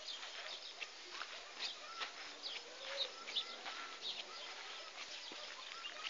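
Small birds chirping, many short high notes scattered throughout, over a faint steady hiss of open countryside.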